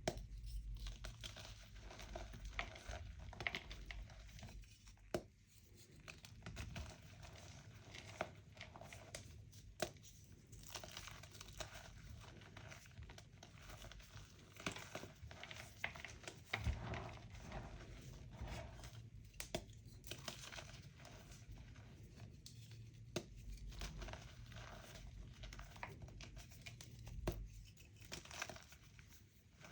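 Homemade chalk being crushed by hand: a dense, irregular crunching and crumbling with scattered sharper snaps as pieces break.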